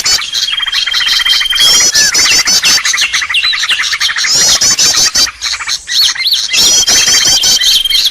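Bird-lure recording of songbirds calling loudly and continuously: a quick high trill repeating about every two seconds, over a held steady whistle and sharp chirps.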